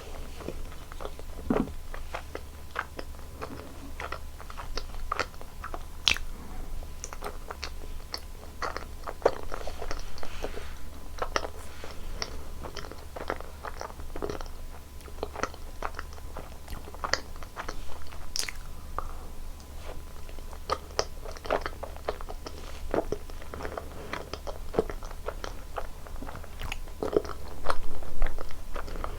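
Close-miked eating sounds: repeated biting and chewing with many short, crisp clicks and crunches at an irregular pace, over a steady low hum. The eating gets louder for a moment near the end.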